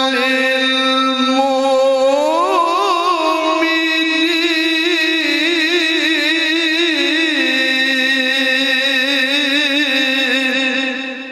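A male qari's voice holding one long, unbroken melodic note in Quran recitation. It rises in pitch about two seconds in, wavers in ornate trills, and fades out near the end.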